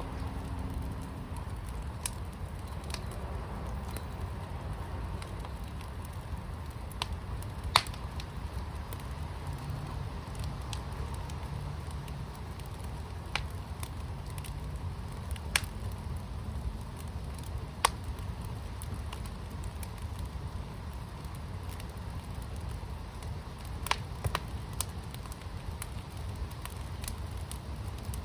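Fire pit burning: a steady low rumble with scattered sharp pops and crackles every few seconds, two of them louder than the rest.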